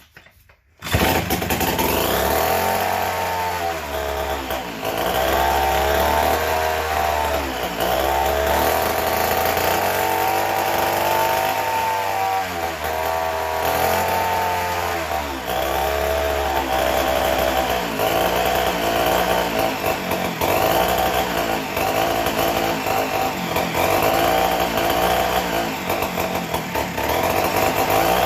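A vintage McCulloch Model 73 gear-drive two-stroke chainsaw catches about a second in and runs loud and fast. Its revs surge up and down repeatedly before settling into steadier high running. The owner takes the racing to be an air leak, suspecting a failed intake gasket or crank seal.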